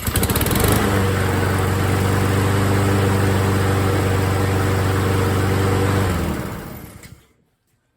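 Honda HRN216 lawn mower's single-cylinder engine running steadily just after starting, then switched off about six seconds in and winding down to a stop.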